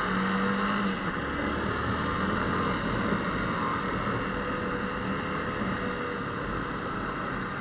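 Motorcycle on the move, its engine running steadily under a constant rush of wind and road noise over the microphone.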